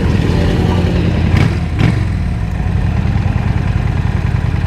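Honda Shadow 750's V-twin engine running steadily as the motorcycle is ridden, heard from a mic inside the rider's helmet with wind noise. Two short sharp sounds stand out about a second and a half in.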